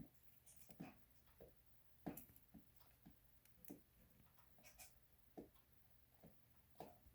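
Leopard gecko shedding, its dry old skin giving faint, irregular crunchy crackles, one or two a second, as it tears the skin off with its mouth and rubs against hard surfaces.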